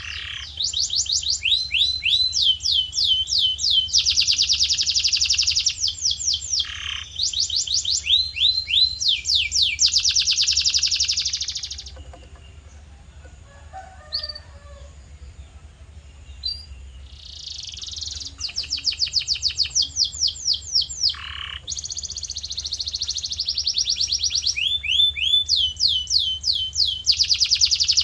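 Male canary singing long rolls: fast trills of rapidly repeated high notes, one run after another, over a steady low hum. The song breaks off for about five seconds in the middle, then resumes.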